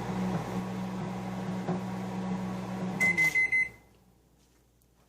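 Microwave oven running with a steady hum, then beeping in a quick run of tones about three seconds in as its cooking cycle ends, the hum winding down and stopping.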